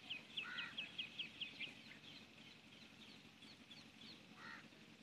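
Faint birds calling: a quick run of short high chirps, about eight a second, for the first couple of seconds, then scattered chirps, with two short lower calls, one about half a second in and one near the end.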